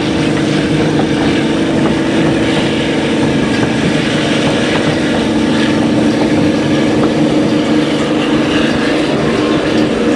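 Narrow-gauge diesel passenger train running, heard from an open car platform: a steady engine drone from the diesel locomotives at the head of the train over the rumble of wheels on rail.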